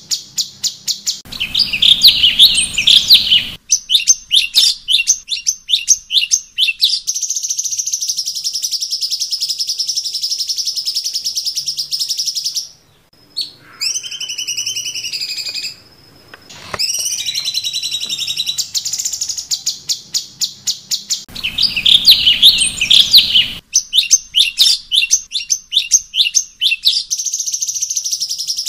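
Cucak cungkok song on a masteran training track: fast chattering trills and rapid runs of high chips, with a couple of slower, slurred whistles in the middle. The same phrase sequence repeats about twenty seconds later, as in a looped recording.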